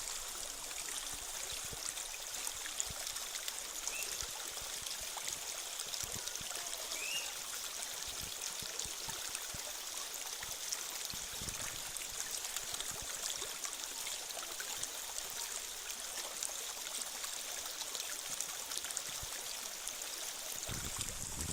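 Creek water running steadily, an even rushing hiss with no lulls.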